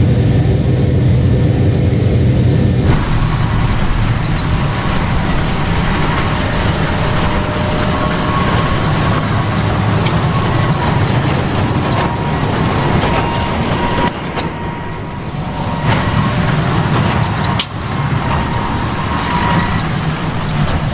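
Fendt 1050 Vario tractor's diesel engine running steadily, with the sound changing abruptly about three seconds in and a few sharp clicks later on.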